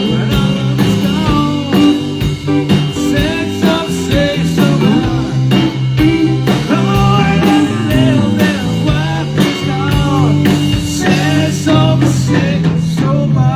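Live band playing a blues-rock number, with a lead line bending up and down in pitch over a steady bass line and drums.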